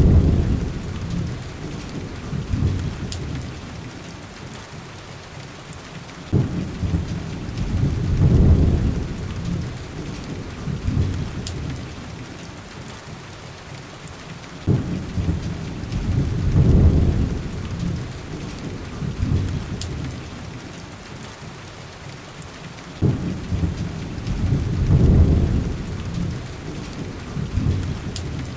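Heavy rain with rolling thunder. A deep rumble is fading at the start, and three more come about every eight seconds; each starts suddenly, swells for a couple of seconds and dies away over the steady hiss of the rain.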